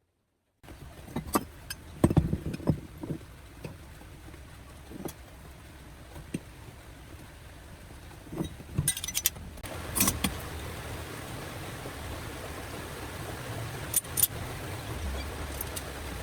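Scattered metallic clinks and knocks, like metal parts being handled and set down, over a low steady hum. The loudest knocks come about two seconds in, with more clinks around nine, ten and fourteen seconds.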